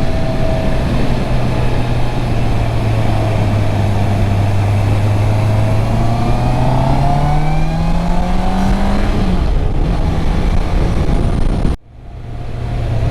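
Stock 2021 Honda CB650R's inline-four engine running steadily under way, then revving up about six seconds in, its pitch climbing for about three seconds before dropping back. Near the end the sound cuts out suddenly and fades back in over about a second.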